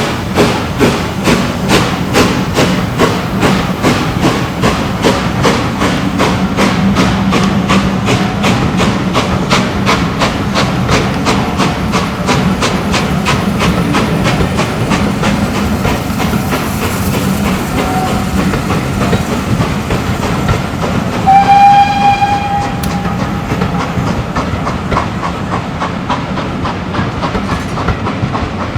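Steam locomotive working under way, its regular exhaust beats quickening as it gathers speed, with one short whistle blast about three quarters of the way through.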